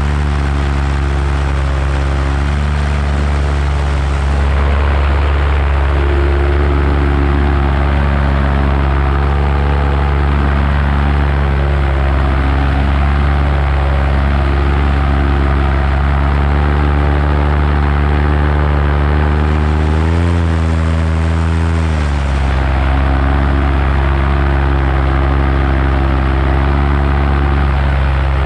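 Paramotor engine and propeller running steadily in flight, with a brief change in engine speed about twenty seconds in.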